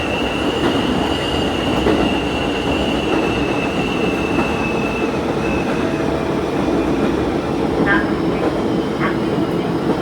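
Diesel railcar running along the line, heard from inside the front of the car: steady engine and rail noise with a high whine that drifts slightly lower and fades out about halfway through.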